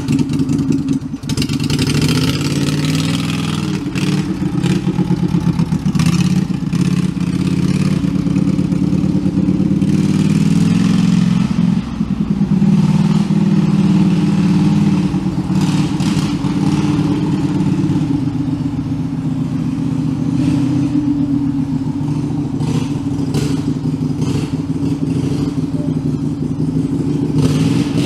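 Homemade garden-tractor-style 'redneck tractor' engine running hard, its pitch rising and falling with the throttle as it is driven for wheelies, with scattered knocks and rattles from the machine.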